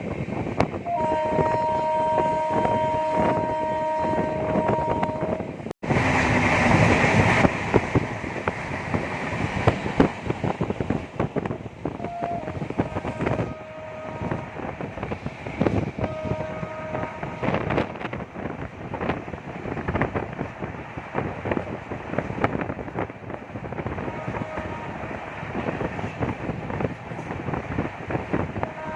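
Passenger train running at speed with a steady rattle and clatter over the rails, heard from on board. A two-tone locomotive horn is held for about four seconds near the start and gives several shorter blasts later.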